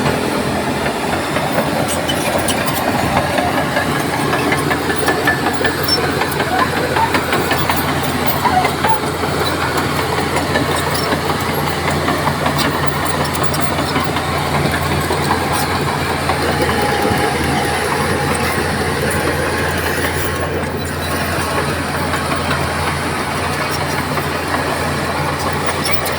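Crawler bulldozer's diesel engine running steadily, with a constant low drone and a busy rattle of many small clicks.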